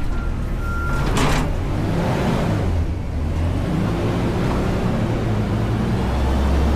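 Front-load garbage truck's diesel engine running, then revving up and growing louder in the second half. A single high beep lasting about a second sounds at the start.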